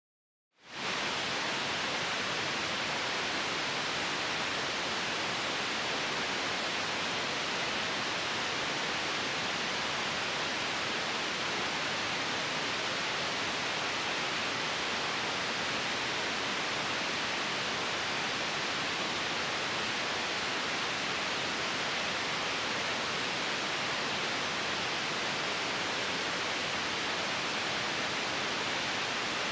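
Steady synthetic white noise for sleep, an even hiss with no variation, fading in within the first second.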